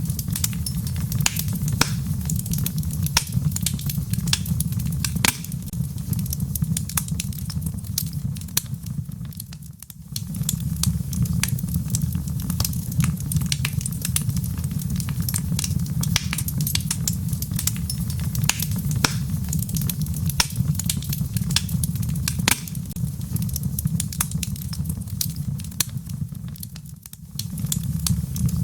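Wood fire crackling with frequent sharp pops and snaps over a steady low rumble, with rain patter mixed in. The low rumble drops away briefly twice, about ten seconds in and again near the end.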